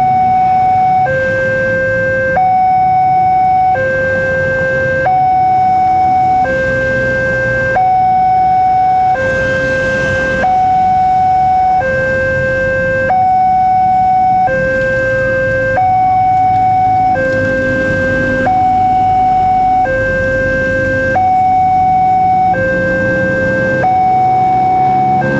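Indonesian railway level-crossing warning alarm sounding a steady high-low two-tone signal, switching pitch about every second and a half, warning that a train is approaching and the barriers are down. A low traffic rumble runs underneath.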